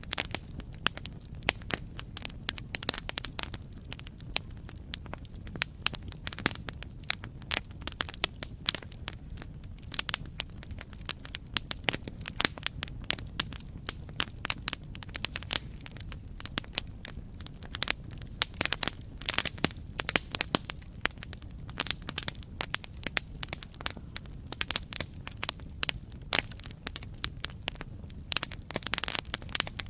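Campfire crackling: many irregular sharp pops and snaps over a low, steady rumble of burning wood.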